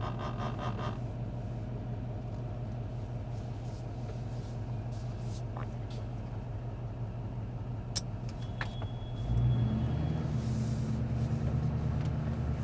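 Duramax 6.6-litre V8 turbodiesel with a muffler-deleted 5-inch straight-pipe exhaust running as the truck drives, a deep steady drone that grows louder about nine seconds in as it pulls harder. A faint high turbo whistle comes in around the same time.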